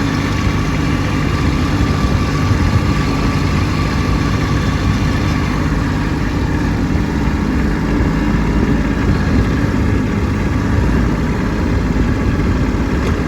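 Kubota B2601 compact tractor's three-cylinder diesel engine running steadily as the tractor drives through snow.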